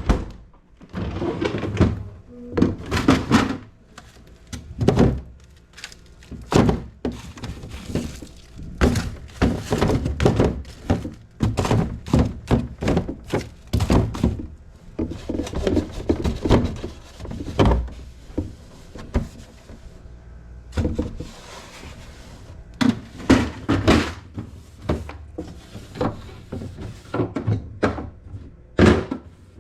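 Refrigerator being cleaned out: irregular knocks and clunks as shelves, drawers and containers are taken out, set down and handled, with the door opening and closing.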